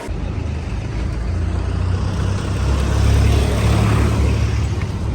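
A motor vehicle running close by, a loud low rumble that swells to a peak about midway and eases off slightly.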